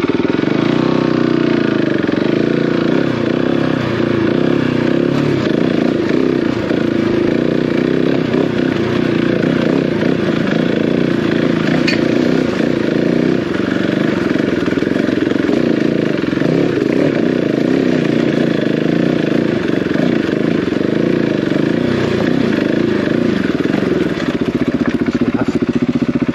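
Single-cylinder off-road motorcycle engine running steadily under riding, its revs rising and falling slightly.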